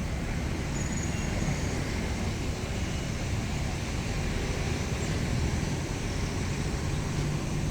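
Steady low rumble of a bus under way: engine and road noise with no marked changes.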